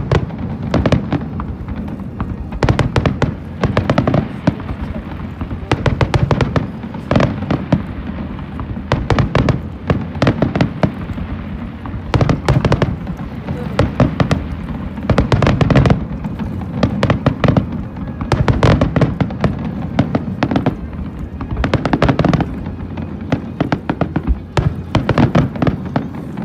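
Aerial fireworks bursting in a dense, continuous barrage of bangs and crackles, several a second, with the loudest bangs coming in clusters every second or two. The barrage eases off near the end.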